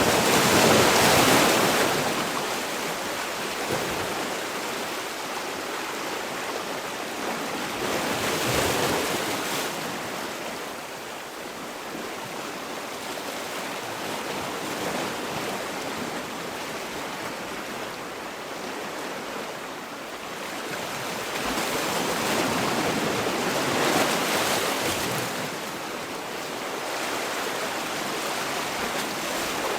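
Sea waves breaking and washing on a shore, a steady surf that swells louder about a second in, again around eight seconds in and once more in the last third.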